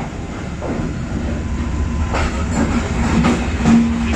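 Passenger train rolling past, with a steady low rumble and wheels clacking over rail joints in a regular rhythm through the second half. A short steady tone sounds near the end, the loudest moment.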